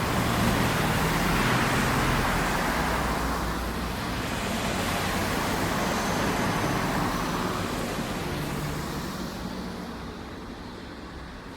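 A motor vehicle engine running with a steady rushing noise, fading gradually over the last few seconds.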